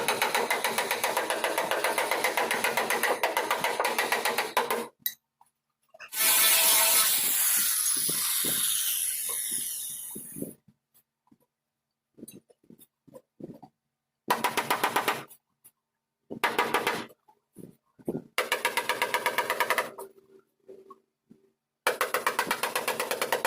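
A power tool running in bursts with a fast, even rattle, stopping and starting several times. About six seconds in comes a loud hiss that fades out over four seconds.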